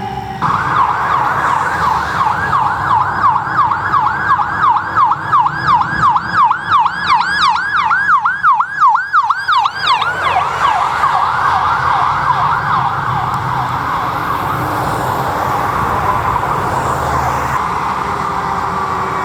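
An emergency vehicle's electronic siren in fast yelp mode, about three to four rising-falling sweeps a second, starting just after the start. About halfway through the sweeps blur into a smeared wail, over a low vehicle rumble.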